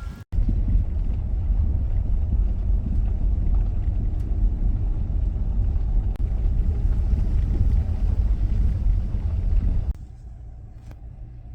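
Steady low rumble of a car driving slowly, dropping off sharply about ten seconds in.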